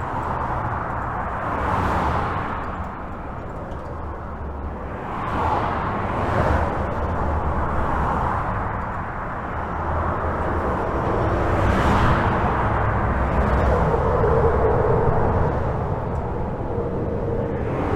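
Continuous highway traffic heard from under a bridge: a steady rush of tyres and engines, with single vehicles swelling past every few seconds, the loudest pass about twelve seconds in.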